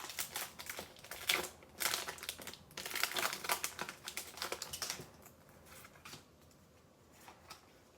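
Foil wrapper of a Pokémon trading card booster pack crinkling and crackling as it is opened, in a quick run of crackles for about five seconds, then only faint rustles.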